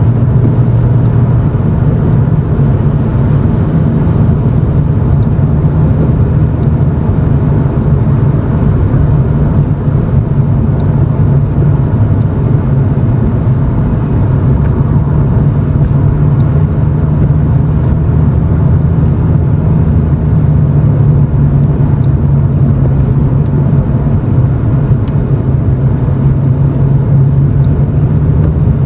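Exhaust note of a Toyota Chaser GX100's 2.0-litre straight-six through an aftermarket Reinhard cannonball muffler with centre pipe and silencer, heard from inside the cabin while driving at low speed. A steady low drone that rises and falls slightly in pitch.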